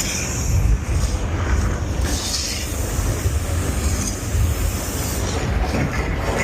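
Steady low rumble and rolling noise aboard a Universal Studios tour tram.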